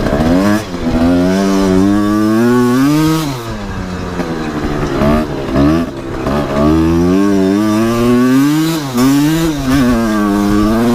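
Two-stroke engine of a 2008 Honda CRF250R dirt bike revving up and down repeatedly, its pitch climbing and dropping every second or two.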